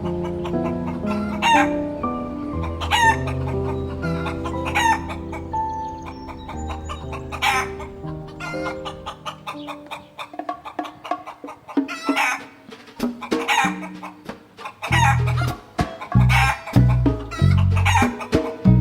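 Chickens clucking and calling, short calls every second or two, over soft background music that grows louder and more rhythmic about fifteen seconds in.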